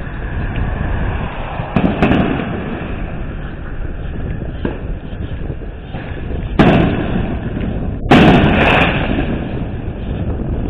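Fireworks exploding: three loud bangs, about two seconds in, about six and a half seconds in, and the loudest at about eight seconds, which rumbles on briefly. Under them is a steady low rush of wind noise on the microphone of a moving bicycle.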